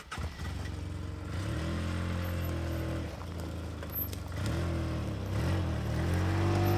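Truck's piston engine pulling away and accelerating, its pitch climbing and dropping back a couple of times as it changes up through the gears, getting louder toward the end.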